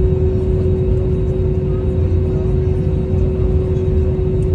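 Airbus A320-271N airliner with its Pratt & Whitney PW1127G geared turbofans running steadily: a loud, even rumble with a constant hum and no change in pitch.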